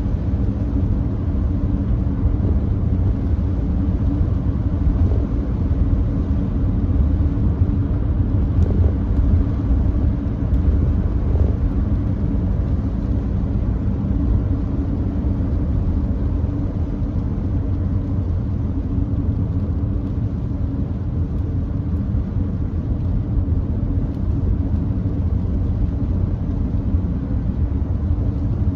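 Steady road noise from a Nissan Note e-POWER cruising at constant speed on a wet expressway: a low rumble with tyre hiss off the wet road surface.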